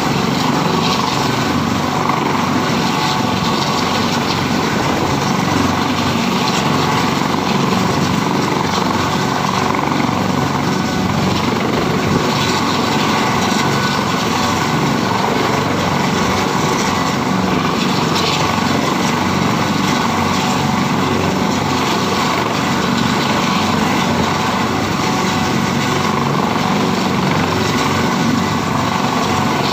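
Helicopter running steadily, its engine and rotor giving a constant loud drone with no change in pitch or level.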